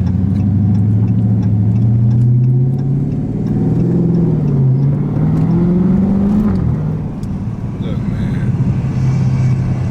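Dodge Scat Pack's 392 Hemi V8 running at low revs. The pitch climbs gradually for a couple of seconds around the middle, drops back, then holds steady again.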